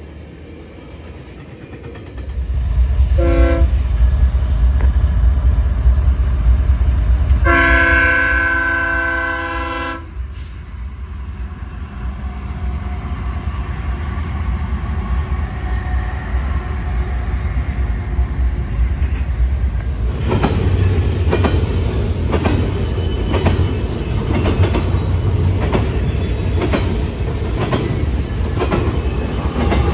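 A train's air horn sounds a chord, a short toot and then a long blast, over the heavy rumble of a passing train. Then BNSF diesel locomotives rumble past, followed by the rhythmic clickety-clack of double-stack container cars rolling over the rail joints.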